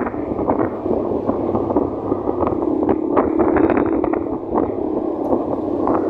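Wind buffeting the microphone over a motorcycle engine running at a steady pace on the move, with scattered light knocks and rattles.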